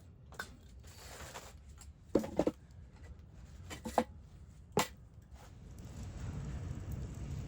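A few scattered knocks and clicks, including a quick double knock, over a low rumble that grows louder near the end.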